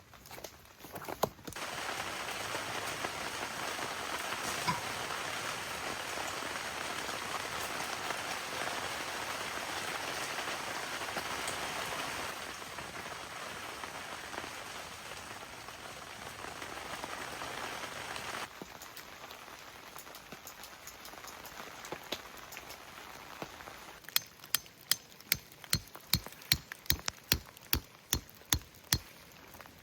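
Steady patter of rain for much of the stretch, growing fainter partway through. Near the end it gives way to a quick series of sharp knocks, about three a second.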